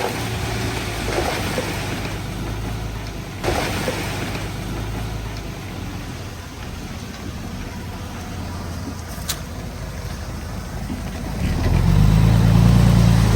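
Heavy diesel engine of earthmoving machinery running steadily, with a single knock a few seconds in. The engine gets clearly louder near the end as it works harder.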